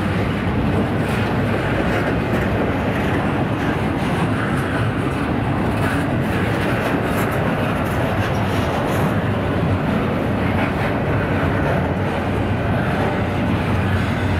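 A train rolling past close by: a steady, unbroken rumble of wheels on the rails, with faint clicks scattered through.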